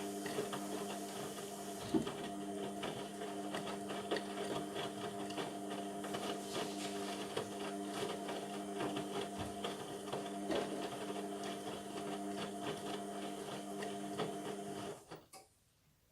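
Indesit MTWC71252WUK washing machine running on its sports cycle: a steady hum with light ticking and rattling, which cuts off suddenly about fifteen seconds in.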